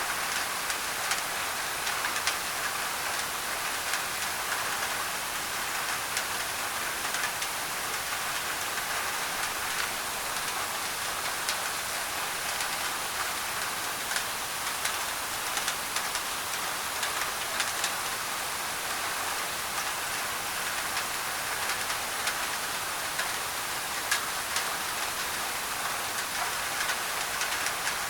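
Steady heavy rain on a thin tin roof, with many sharp individual drop hits ticking over a constant wash of white noise.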